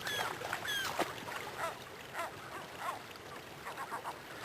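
Birds calling: a quick series of short, clear chirps that curve downward in pitch, about three a second, over a steady background hiss.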